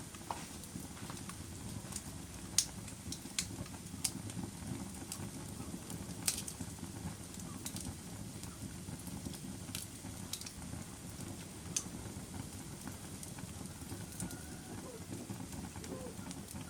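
Wood fire burning in a fireplace: a steady low rumble of flames with sharp crackles and pops every second or two, a few of them louder snaps.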